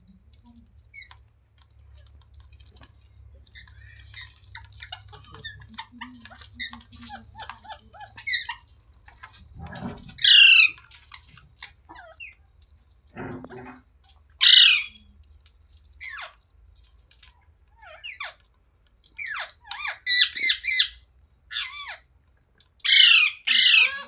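Ringneck parrot calling: soft scattered chattering for the first several seconds, then loud squawks that sweep down in pitch, several in quick succession near the end.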